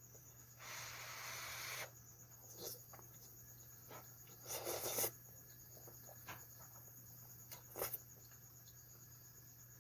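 Soft eating noises from a person eating cheesy ramen noodles: a longer noisy sound about a second in, a shorter one around the middle, and a few small clicks.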